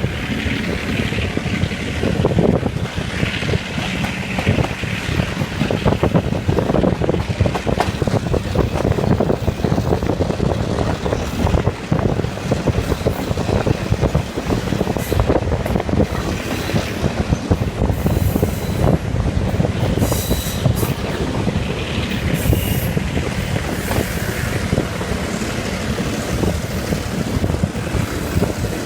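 Passenger train running along the track: steady rumble and clatter of the carriage wheels on the rails, with a high wheel squeal rising at times.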